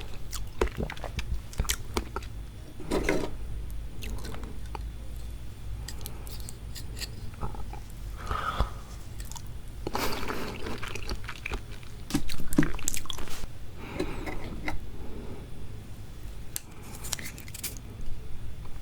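Close-miked chewing of raw seafood: wet mouth clicks and squelches, with sharp clicks scattered all through and a louder stretch of chewing about twelve seconds in.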